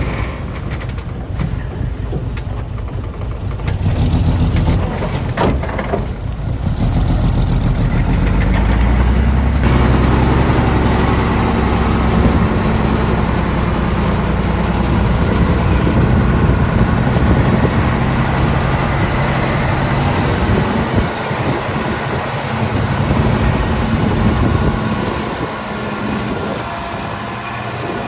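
Heavy diesel engine of earth-moving machinery running. It picks up about four seconds in, holds a steady low note under load, and eases off after about twenty seconds.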